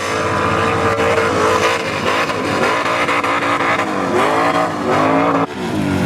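Big off-road truck engine revving, its pitch dipping and climbing again several times. The sound breaks off abruptly about five and a half seconds in and picks up again.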